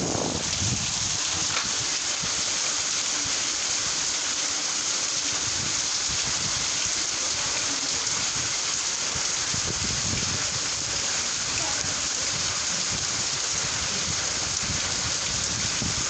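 Steady, heavy rain from a kalbaishakhi (nor'wester) storm, a dense even hiss of rain falling on surfaces.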